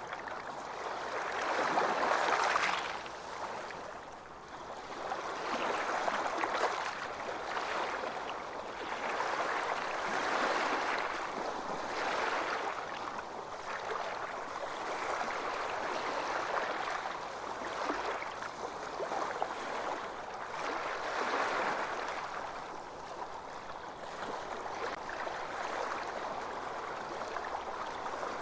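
Small ocean waves washing onto a beach, each rush of surf swelling and fading about every two to three seconds, the loudest near the start.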